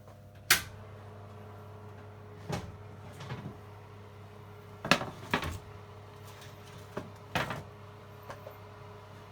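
Kitchen handling noise: about six separate sharp knocks and clunks, spread out over several seconds, as cookware and a baking tray are handled. A steady low hum runs underneath.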